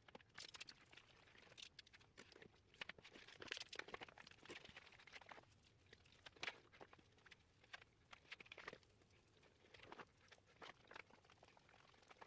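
Faint, irregular patter and crinkling: water squirted from a squeezed plastic soda bottle spattering onto a basement wall.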